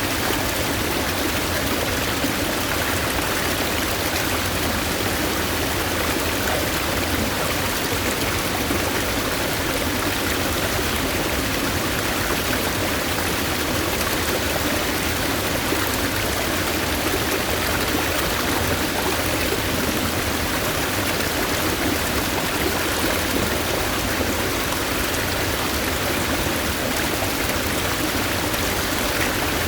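Stream water rushing steadily, a constant, even wash of flowing water.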